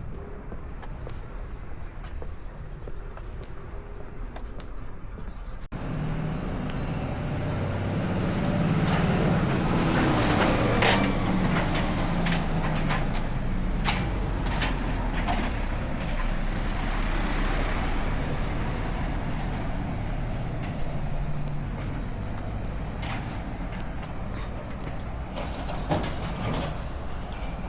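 Road traffic: a heavy vehicle's engine, such as a bus, running as it passes, with the sound growing abruptly louder about six seconds in and loudest a few seconds later.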